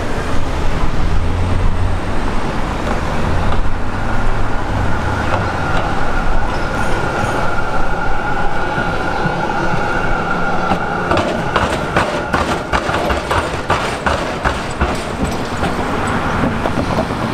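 Electric suburban train passing, rumbling with a steady high whine. From about eleven seconds in, its wheels set up a rapid run of clicks over the track.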